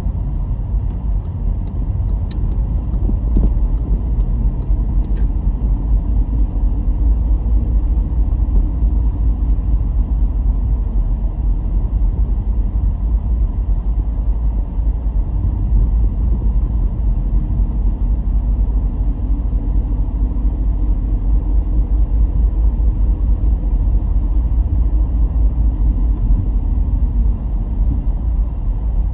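Car driving on a road: a steady low rumble of engine and road noise, with two faint clicks in the first few seconds.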